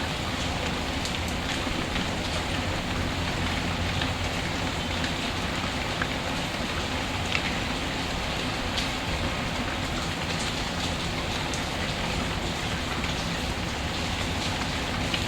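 Steady rainfall hissing evenly, with a few sharp crackles and pops of a wood fire scattered through it.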